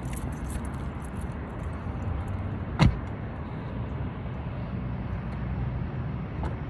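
A car door shutting with one sharp thump about three seconds in, over a steady low outdoor rumble.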